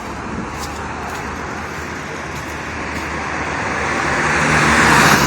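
Road traffic: a passing vehicle's tyre and engine noise swells steadily, loudest near the end.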